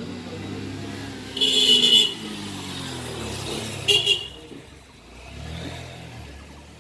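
A motor vehicle's engine passing, its pitch sliding down. Two loud, shrill blasts cut through it, one about a second and a half in and a shorter one about four seconds in.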